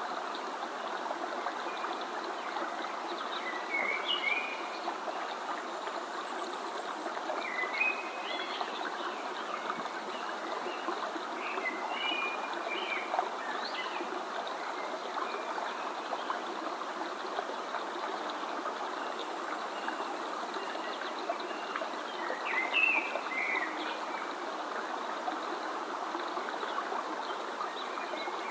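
A stream of water flowing steadily, with a few short bird chirps scattered over it.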